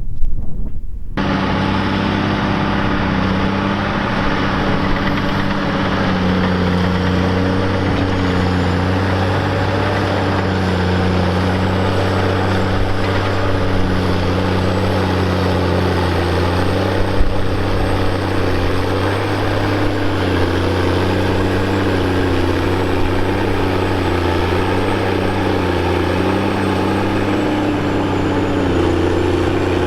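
Heavy tractor diesel engine running steadily, its low drone wavering slightly in pitch as the load changes. Wind buffets the microphone for about the first second.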